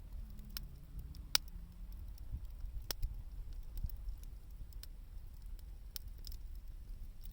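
Wood fire crackling, with irregular sharp pops and snaps over a low steady rumble of burning.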